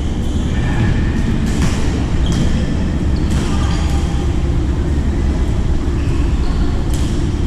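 Badminton play: a few sharp racket hits on the shuttlecock and short high shoe squeaks on the court floor, over a loud steady low rumble.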